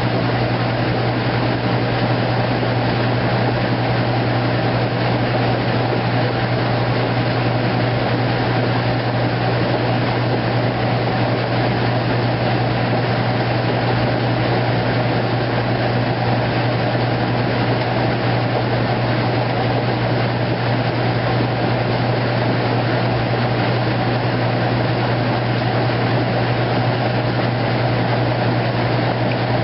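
2008 Kenmore top-load washing machine running its heavy duty cycle, a steady machine noise with a constant low hum from the motor and no breaks.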